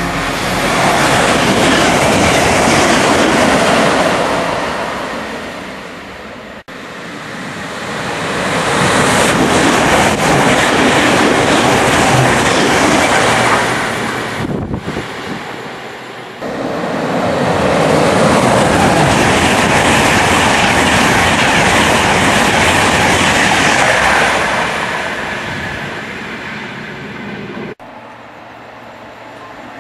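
Electric multiple-unit passenger trains, Class 365 type, running through a station at speed: the rumble of wheels on rail swells and fades three times as separate trains pass, and each pass breaks off abruptly.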